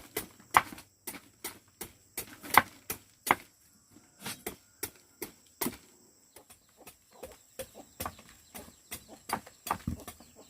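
Knife chopping on a wooden board in a steady run of sharp strikes, about two to three a second, softer for a couple of seconds after the middle.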